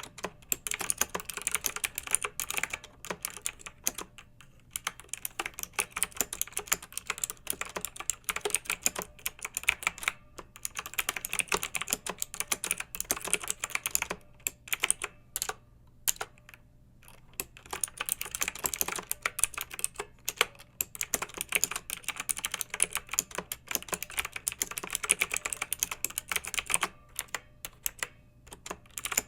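Clicky mechanical keyboard being typed on in quick, continuous runs of sharp keystrokes, with short pauses about four seconds in, about ten seconds in, and a few halfway through.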